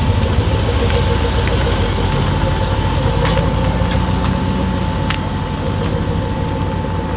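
Jaguar F-Type SVR's supercharged 5.0-litre V8 idling, a steady low rumble that eases off slightly toward the end.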